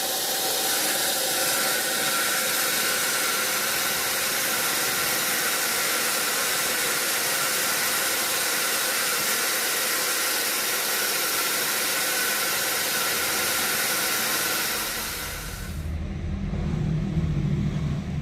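Sawmill saw cutting through a large mahogany log: a loud, steady hiss with a ringing whine. About fifteen seconds in the cut ends and the high hiss stops, leaving a lower mechanical rumble.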